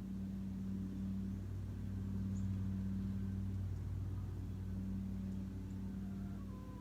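Steady low mechanical hum, like a motor or engine running, with its upper tone fading out and back in for a moment. A few faint, very short high chirps sound over it.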